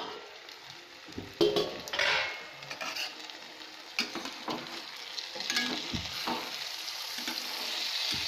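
Spiced vegetables sizzling in a pan while a spatula stirs and scrapes through them. A few knocks of the steel lid come in the first two seconds, and the sizzle grows steadier toward the end.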